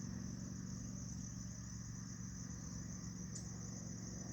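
Steady low hum like a distant engine running, under a constant high-pitched insect trill, with no change throughout.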